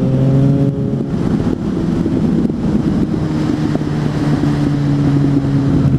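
Suzuki GSF 600 Bandit's inline-four engine, fitted with an aftermarket exhaust, running at a steady pitch while the bike is ridden, with wind buffeting the microphone.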